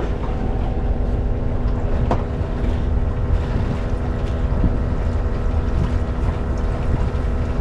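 Sailboat's inboard engine idling steadily in neutral, a low even drone, with wind rumbling on the microphone.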